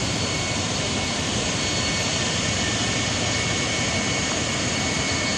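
Steady drone of a boat's engine and machinery, an even rushing noise with two faint high whining tones running through it.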